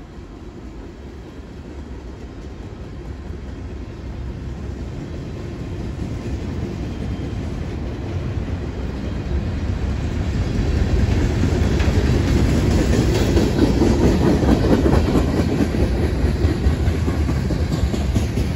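Freight train tank cars rolling past, steel wheels rumbling over the rails. The sound grows steadily louder and is loudest a little past the middle.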